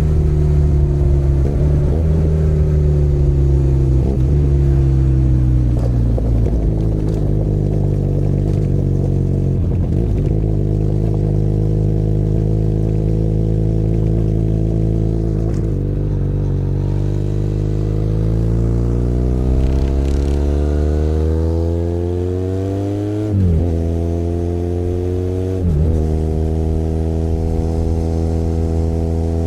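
Benelli Leoncino 500 Trail's parallel-twin engine under way. Engine speed falls steadily through the first half as the bike slows, then climbs under acceleration. There are two quick upshifts near the end, each dropping the pitch before it rises again.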